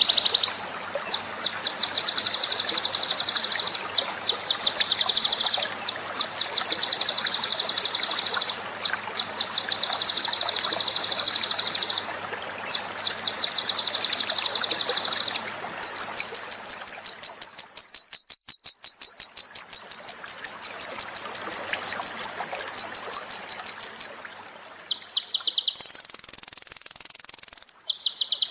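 Songbird singing rapid, high-pitched pulsed trills in bouts of two to four seconds, as used for training cage birds. About sixteen seconds in comes one unbroken trill of about eight seconds, followed by shorter phrases.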